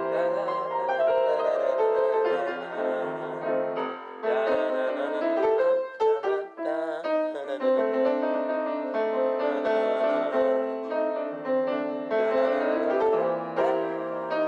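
Piano playing a slow twelve-bar blues in C, chords over a moving bass line, on a piano that the player says needs tuning.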